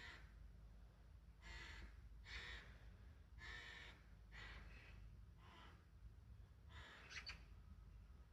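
Wild crows cawing faintly: a string of short, harsh caws, roughly one a second, with a pair of calls close together near the end.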